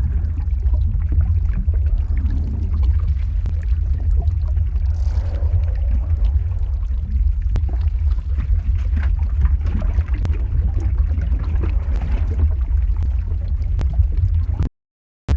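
Lava-flow ambience sound effect: a deep, steady rumble with scattered crackles and pops. It cuts out completely for about half a second near the end.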